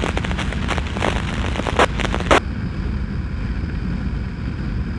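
Riding noise from a motorcycle: a steady low rumble with wind buffeting the microphone. Dense crackling clicks in the first half, two of them louder, stop about two and a half seconds in, leaving the duller rumble.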